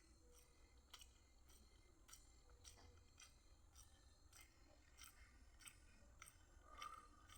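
Faint chewing while eating fried rice: soft, crisp mouth clicks, about two a second.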